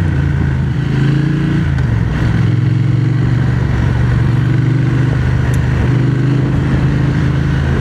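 Triumph Speed Twin 1200's parallel-twin engine running under way as the motorcycle is ridden, its note dipping and coming back up about two seconds in, then holding steady.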